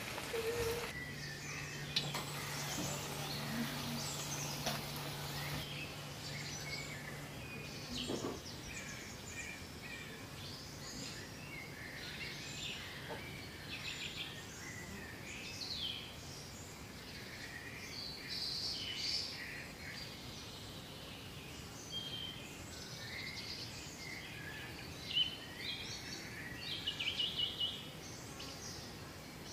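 Small birds chirping and singing, many short calls scattered throughout, with a quick run of chirps near the end. A low steady hum sounds under the first several seconds, then stops.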